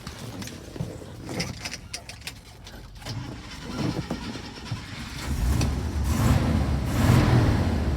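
A few clicks and knocks, then the truck's V8, which the seller believes is a 392, starts and catches about five seconds in and runs with a steady rumble, louder toward the end. The engine is being started on a jump booster because the truck needs a new battery.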